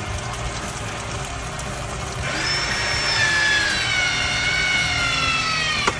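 ProPress crimping tool pressing a 1½-inch copper elbow. Its motor whine starts about two seconds in, slowly sinks in pitch as the jaws close on the fitting, and stops with a click near the end. A steady low hum runs underneath.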